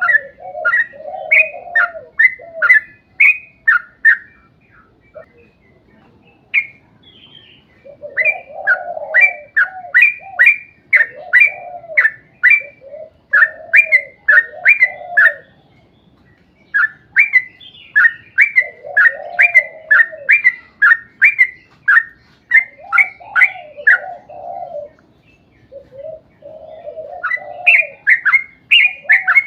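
Yellow-vented bulbul (trucukan) singing a long rapid run: quick repeated sharp chirping notes, about three a second, over a lower bubbling warble, breaking off briefly a few times before starting again.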